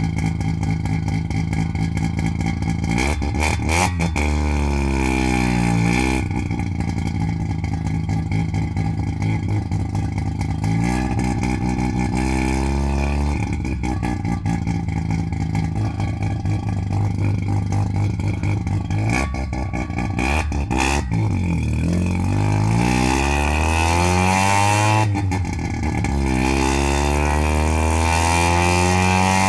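Half-bridgeport-ported Mazda 12A rotary engine idling and being revved up and down several times, with a long climb in revs near the end. Short sharp cracks come through as the revs drop.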